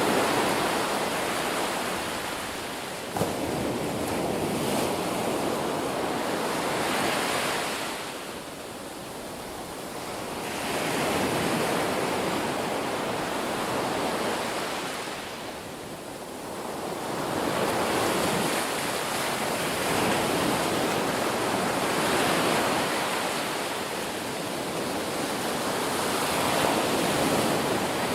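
Ocean waves, a continuous rushing wash that swells and eases in slow surges several seconds apart. A single brief click sounds about three seconds in.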